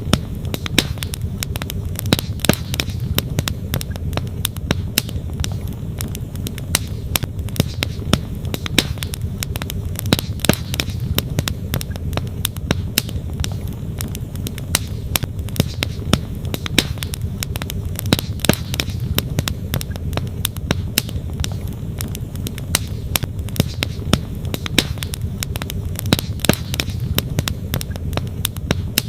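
Wood fire crackling, with frequent irregular sharp pops, some louder than the rest, over the steady low rush of a flowing stream.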